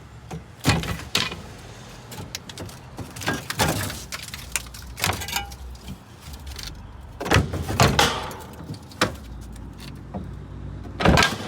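Metal hand tools clanking and knocking as they are tossed and set into a storage holder on a work truck, with irregular sharp hits, a few of them ringing, over a faint low steady hum.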